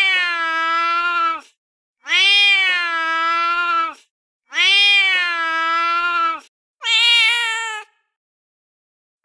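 Recorded domestic cat meows played from a cat-sounds app: the same long, drawn-out meow three times, each lasting about two seconds, then a shorter, higher-pitched meow near the end.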